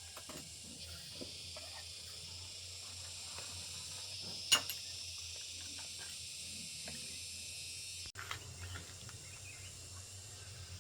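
Steady high background hiss over a low hum, with scattered light clicks and one sharper click about four and a half seconds in.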